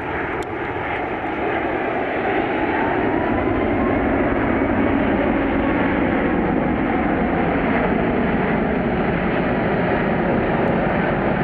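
Jet engine noise of an Airbus A380's four turbofans on a low pass, growing louder over the first two seconds and then holding steady.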